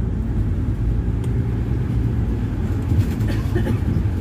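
Scania Citywide natural-gas city bus engine running, a steady low rumble.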